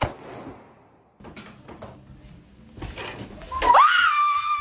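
A balloon pops with a sharp bang, followed by a few scattered knocks and thuds. About three and a half seconds in, a woman lets out a loud, long, high-pitched scream that rises and then holds.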